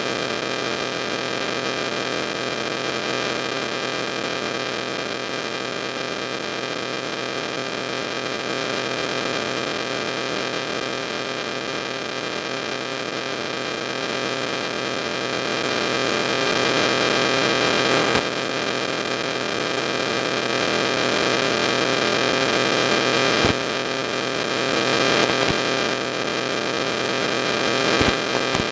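Steady electrical hum and hiss with many fixed tones, and a few clicks in the second half.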